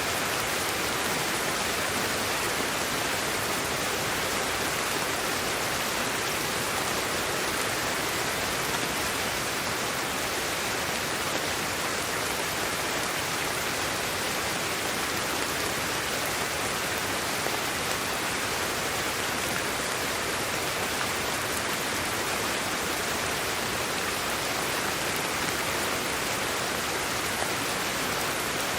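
Steady, unbroken sleep-aid noise: an even hiss with no rhythm or events, fuller in the upper middle than at the bass end.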